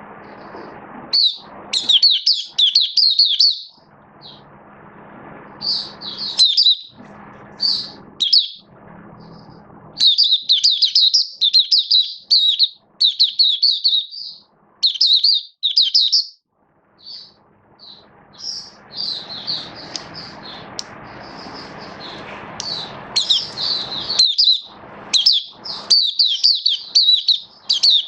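White-eye singing: fast, high twittering phrases in repeated bursts of a second or two, broken by short pauses.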